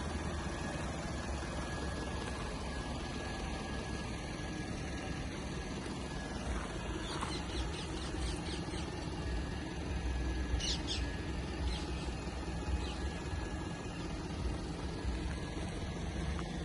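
Isuzu Forward N75.150 truck's 3.0-litre diesel engine idling with a steady low hum. Birds chirp briefly over it twice, about seven seconds in and again near eleven seconds.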